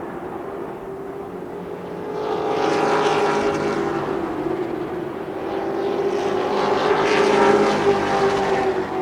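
A field of race trucks running on an oval track, engines at racing speed; the engine sound swells twice, about three and seven seconds in, as the trucks go past.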